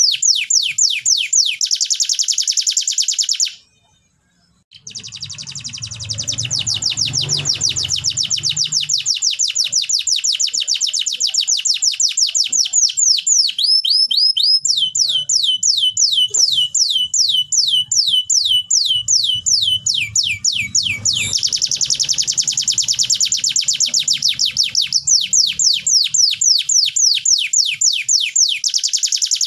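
Domestic canary singing long, rapid trills of repeated downward-sweeping notes, switching to a lower, slower trill about halfway through, with a faint low hum underneath. The song breaks off for about a second a few seconds in.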